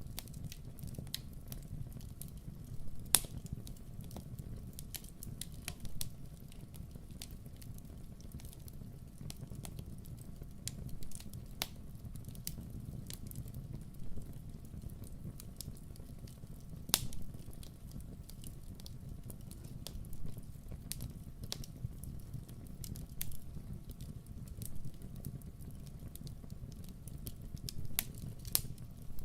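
Campfire crackling: wood burning with a low steady rumble and scattered sharp pops. The loudest pops come about 3 seconds in and again about 17 seconds in.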